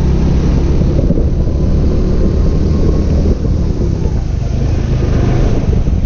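Kart engine running steadily under way, with wind buffeting the microphone and heavy spray noise in the wet.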